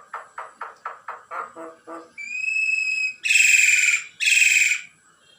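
Pet myna chick calling. It gives a quick run of repeated chirps, about five a second, then a single clear whistle held for about a second, then two loud harsh screeches.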